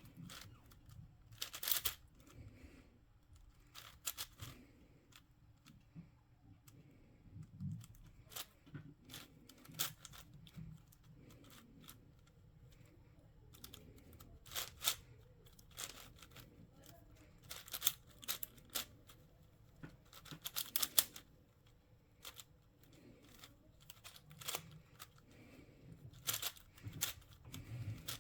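Plastic twisty puzzle being turned by hand: irregular clicking turns, some single and some in quick bursts, with short pauses between them.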